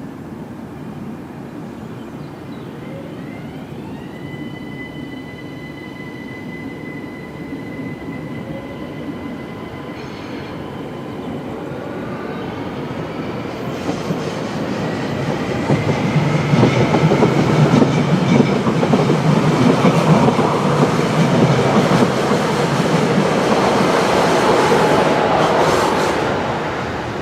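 Siemens Desiro ML electric multiple unit (ÖBB Cityjet class 4744) approaching and passing. A high whine rises in pitch a few seconds in and then holds, and the train's running noise grows loud in the second half with clattering from the bogie area. The uploader puts the clatter down to loosely suspended components, not a fault.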